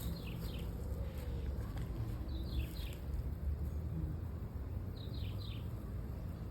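A bird calling in small groups of short, high, falling chirps about every two and a half seconds, over a steady low rumble of outdoor ambience.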